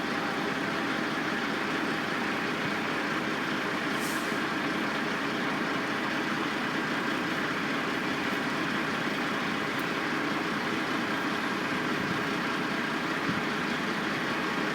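Steady din of construction-site machinery and heavy truck engines running, with a short hiss about four seconds in.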